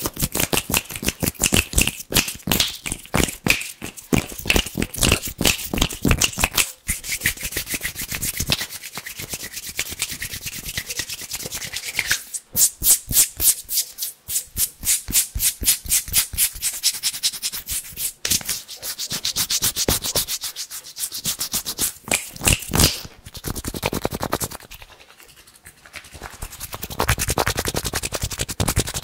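Bare hands rubbing together fast and hard right against the microphone, a rapid run of crisp, dry strokes. The strokes are rhythmic, several a second, and they ease off briefly about two-thirds of the way through before picking up again.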